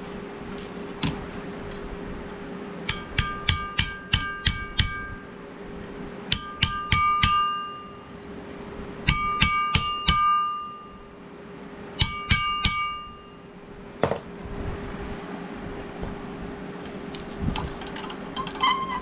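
Hammer tapping on steel in quick runs of four to six blows, each run ringing with a bright metallic tone, four runs in all, with a single duller knock later. A steady low hum runs underneath.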